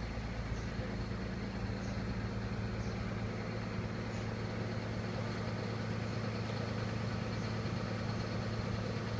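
Shear baler's hydraulic power unit running steadily: an even low hum with faint light ticks about once a second.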